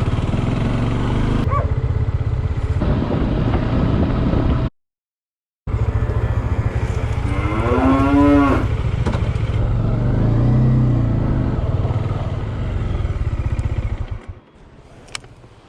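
A cow moos once, a long call about eight seconds in, over the steady running of a motorcycle engine. The engine sound breaks off briefly about five seconds in and drops away near the end.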